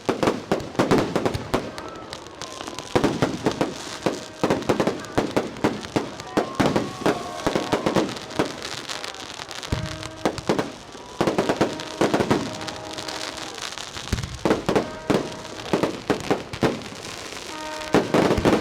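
Fireworks display: rapid volleys of bangs and crackles, coming in clusters every couple of seconds with short lulls between them.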